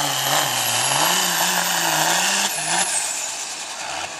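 Diesel 4x4 pickup truck pulling a weight-transfer sled at full throttle, its engine running hard with a wavering pitch. Almost three seconds in it backs off, and a high whistle falls away as the engine sound drops.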